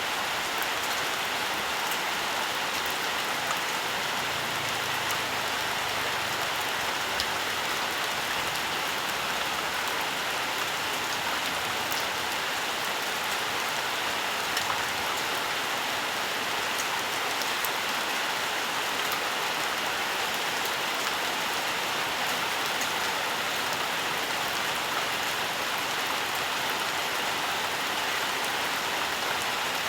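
Steady rainfall in a forest, an even hiss of rain with scattered individual drops ticking on surfaces.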